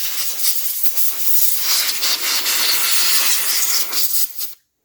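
Compressed air sprayed into a laptop's ports and cooling fan to blow out dust: a loud hiss that pulses in short blasts, then cuts off suddenly near the end.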